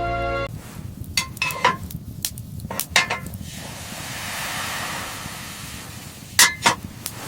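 Background music cuts off just after the start, followed by a run of sharp clinks and knocks. A soft rushing noise fills the middle, and a louder pair of clinks comes near the end.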